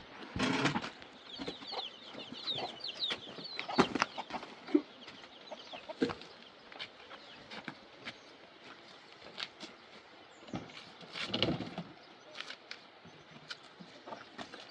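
Birds calling, with a quick run of high chirps about one to three seconds in. Scattered knocks and clatters sound throughout.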